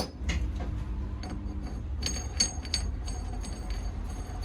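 Light metallic clicks and clinks, irregular and quick, over a steady low hum.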